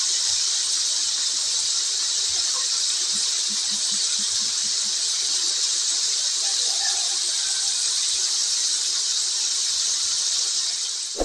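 Whole shrimp sizzling in hot oil in a wok: a steady, high hiss.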